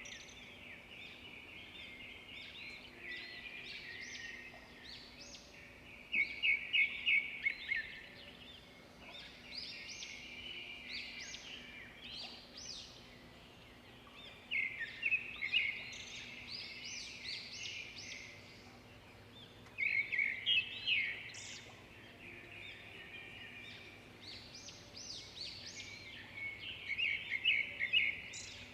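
Songbirds singing: a loud phrase of quick chirping notes every five to eight seconds, over softer continuous twittering.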